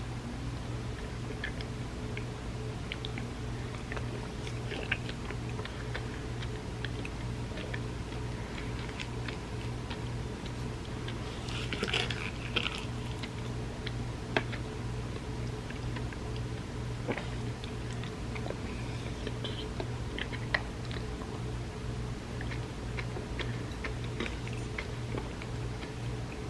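Close-up eating of creamy rice pudding: soft chewing and wet mouth sounds with scattered small clicks, and a louder brief noise about twelve seconds in, over a steady low hum.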